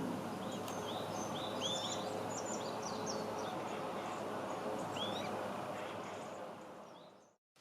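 Small birds chirping and calling in quick, short notes over a steady background rush. The sound fades out near the end.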